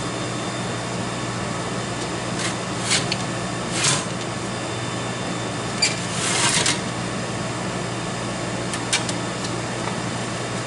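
Steady low electrical hum from the slot machine cabinet, with a few scattered short clicks and brief rustles from handling its ticket printer and paper.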